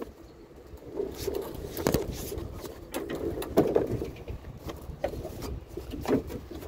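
Scattered knocks, clicks and scrapes of objects being handled and shifted, with a few sharper knocks about two, three and a half and six seconds in, over a steady low rumble.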